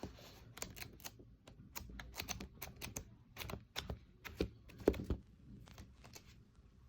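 A run of light, irregular clicks and taps, a few a second, with a louder pair about two-thirds of the way through: objects being handled on a desk.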